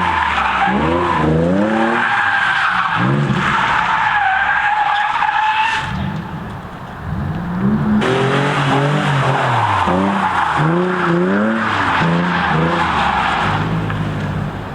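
A rear-wheel-drive coupe's V6 engine revving up and down in quick, repeated surges while its tyres squeal in a donut or drift. The revs and squeal drop off briefly about halfway through, then climb again.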